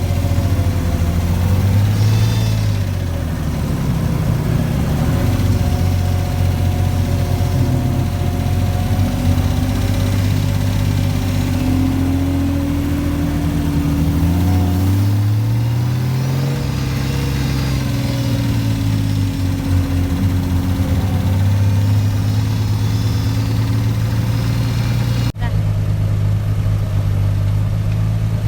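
Car engine running, its revs rising and falling a few times, with an abrupt change about 25 seconds in.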